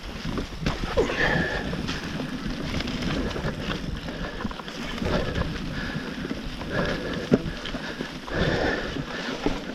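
Mountain bike riding a wet trail: wind buffeting the microphone over the rolling tyre noise, with the bike knocking and rattling over bumps and one sharper knock about seven seconds in.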